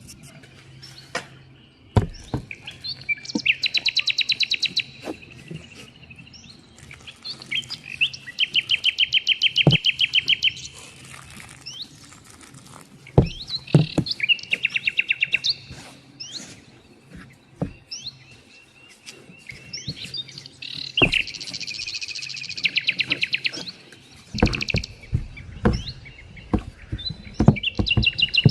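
Songbirds singing, about five phrases of fast, even trills, each lasting one to two and a half seconds. Scattered sharp knocks and taps are heard between them, several in a cluster near the end.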